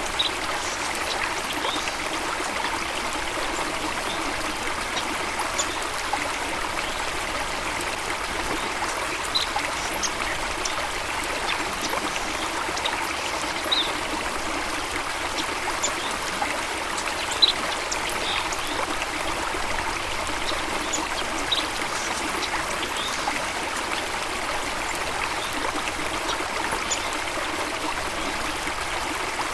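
Water flowing and trickling steadily, with scattered brief high chirps over it.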